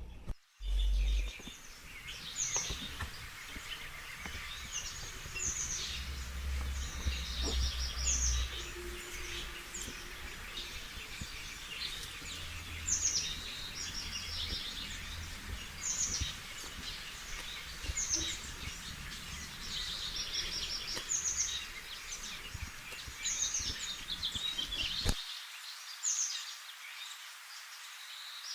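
Small birds chirping and trilling in short, high, repeated calls, over a low background rumble that cuts out near the end.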